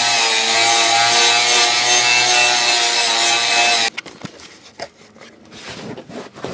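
A handheld power tool running steadily with a whine, cutting off suddenly about four seconds in, followed by scattered light scrapes and clicks.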